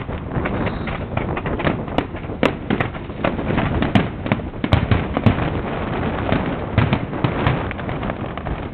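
Fireworks going off in a dense, irregular run of bangs and crackles, with a handful of sharper, louder reports scattered through.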